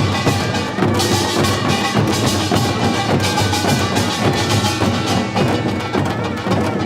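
Live ensemble music driven by busy, rhythmic percussion: rapid drum and wood-block-like strikes over held instrumental tones.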